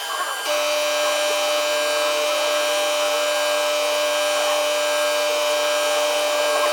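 CNC milling machine running, its spindle whining steadily as it cuts the angled faces of a mould punch. About half a second in, the whine steps to a new pitch and gets louder.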